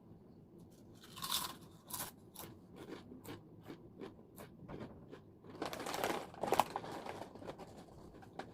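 Crunchy chips being bitten and chewed close to the microphone: sharp crackling crunches about two to three a second. There are louder, longer bursts about a second in and again about halfway through.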